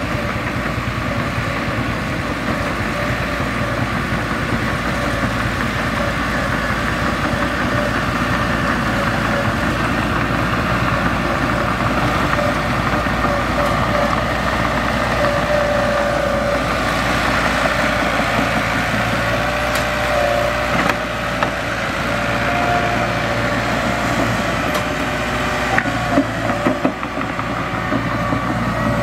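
Mitsubishi bulldozer's diesel engine running steadily as the dozer works, with a few sharp clanks in the last few seconds.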